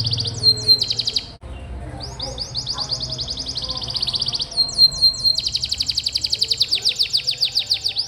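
Domestic canary singing long, fast rolling trills of rapidly repeated high notes. The song breaks briefly about a second and a half in, and twice it is cut through by quick downward-sweeping notes.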